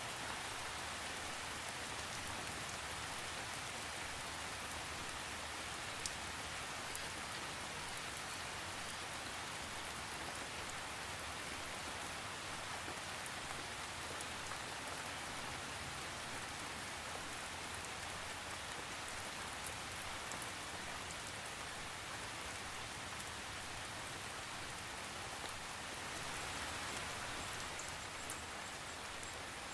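Steady rain falling, an even hiss with faint individual drops ticking on a surface, with no thunder.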